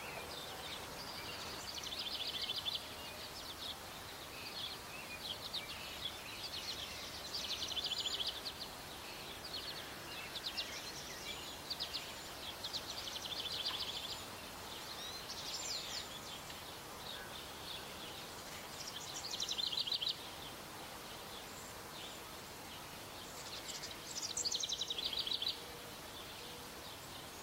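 Small songbirds singing: short, rapid trilled phrases repeating every second or two over a faint steady background hiss.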